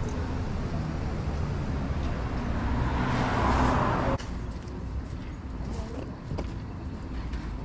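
Outdoor background noise with a low traffic rumble. A rushing noise swells for about a second and a half and cuts off abruptly about four seconds in.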